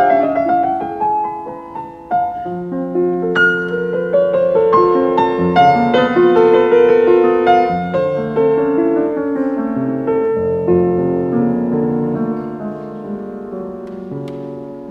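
Background piano music: chords and melodic runs that fade gradually towards the end.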